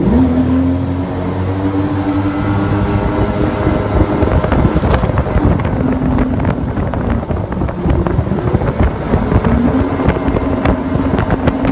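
Exciter 220 jet boat's engine pulling hard from a standing start under full throttle, its pitch jumping up at once and holding high, then easing off in the middle and climbing again near the end. Wind rushes over the microphone throughout.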